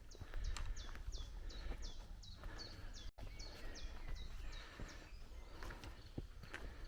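A songbird repeating short, high, down-slurred notes, about three a second, pausing near the end before starting again. Underneath are soft, irregular footsteps on a forest trail, and the sound drops out for an instant about three seconds in.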